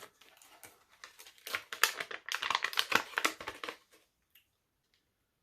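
Plastic toy packaging crinkling and crackling as it is handled, for about four seconds, then stopping.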